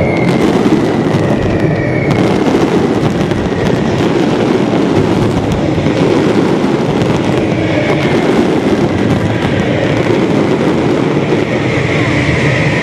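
Fireworks display: a dense, continuous crackling and popping from many crackling comets and shells going off at once.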